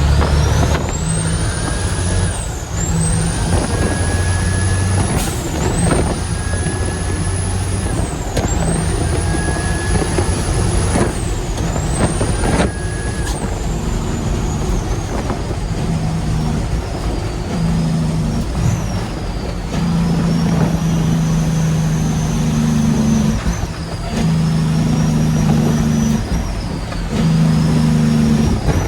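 Heavy diesel truck accelerating through the gears: a high turbo whistle climbs and falls back about five times in the first half as each gear is taken, then the engine pulls on with a lower, wavering whistle.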